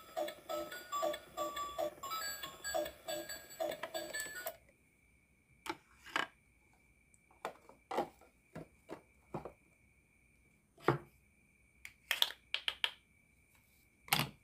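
Toy microwave playing a short electronic beeping tune while it runs, which stops abruptly about four seconds in. After that come scattered sharp plastic clicks and knocks as the toys are handled.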